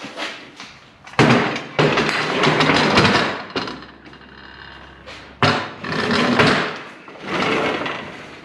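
Shop equipment being moved: two long stretches of scraping and rattling, each about two seconds.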